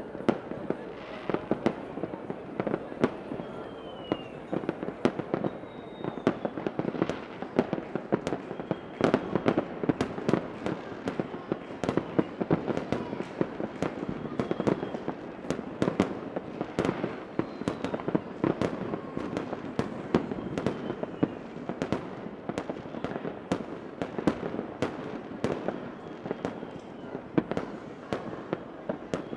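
Fireworks display: many fireworks going off in quick, continuous succession, dense bangs and crackling with faint short whistles here and there.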